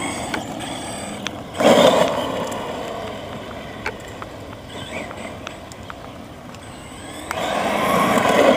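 Electric Redcat Volcano RC truck being driven, with two bursts of acceleration, a short one about two seconds in and a longer one near the end, and quieter running and ticks between them.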